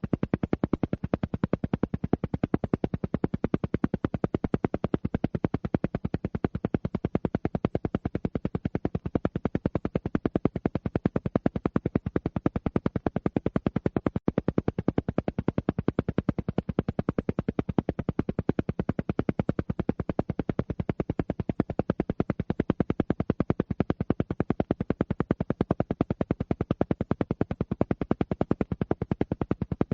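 Alpha-wave brainwave-entrainment tone: a low tone pulsing on and off in a rapid, perfectly even rhythm that does not change.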